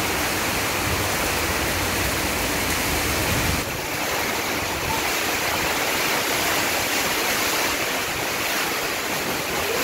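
Heavy cyclone rain pouring steadily onto corrugated tin roofs and a waterlogged lane, with water running off the roof edges. A low rumble underneath drops away about three and a half seconds in.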